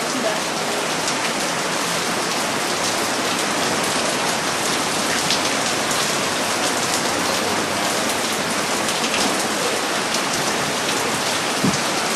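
Very heavy rain falling steadily: a dense, even hiss with the scattered ticks of individual drops.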